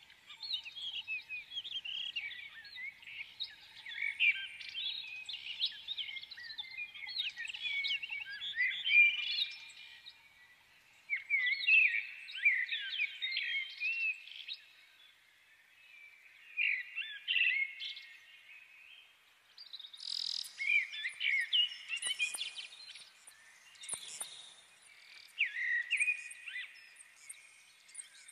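Small birds chirping and singing: a dense run of quick high chirps and trills, with a few short pauses.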